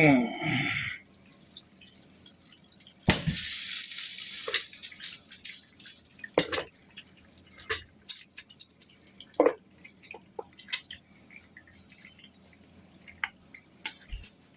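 Beef and sausage frying in hot oil in a pan, with a steady sizzle that surges louder about three seconds in for a couple of seconds. Scattered sharp clicks of a utensil against the pan.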